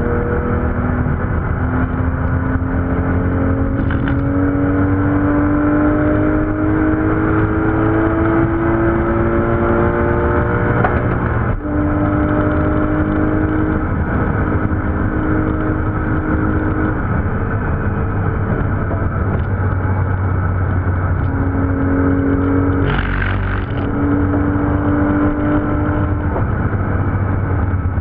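Porsche 911 GT3's flat-six engine under hard acceleration, heard from inside the cabin with road noise. The revs climb steadily for about ten seconds before a quick upshift, then hold and change pitch in steps with further gear changes. A brief rougher burst comes a little before the end.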